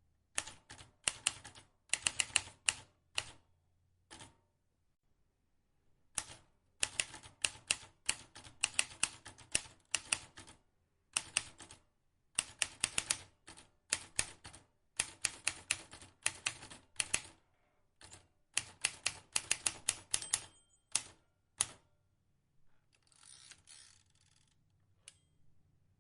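Vintage manual typewriter keys being struck in quick runs of clacks, with short pauses between the runs. Near the end the typing stops and a softer, longer noise of about a second and a half follows.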